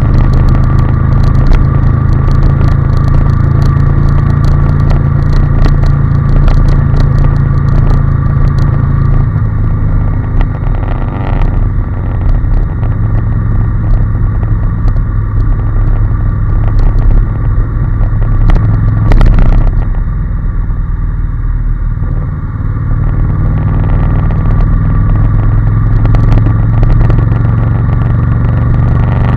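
Honda NC750S parallel-twin engine running steadily while riding at road speed. The engine note drops slightly about nine seconds in, and there is one brief sharp clatter about nineteen seconds in.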